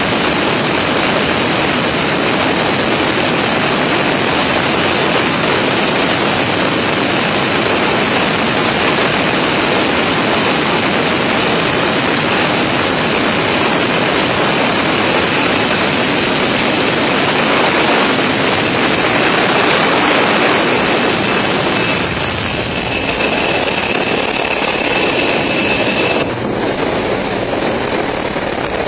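Loud, steady rush of aircraft engine and airflow noise at the landing gear. A thin high whine joins partway through and cuts off suddenly near the end, where the hiss also thins out.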